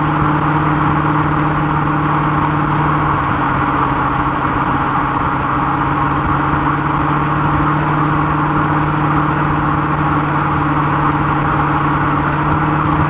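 1934 Ford hot rod's 392 Hemi V8 running at a steady highway cruise: a constant, even engine drone that holds one pitch, with wind and road noise.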